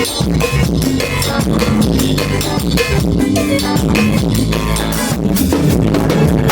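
Drum kit played in a driving rock beat together with bass guitar and guitar, with rapid, evenly spaced hits throughout.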